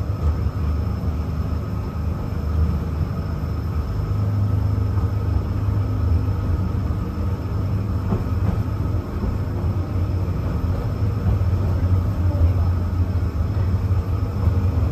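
DisneySea Electric Railway trolley car running along its elevated track: a steady low rumble with faint steady high tones above it.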